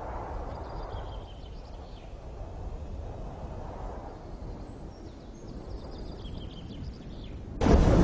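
Wind and sea surf, with faint, short high bird calls twice. Near the end a sudden loud rush of water or wind breaks in.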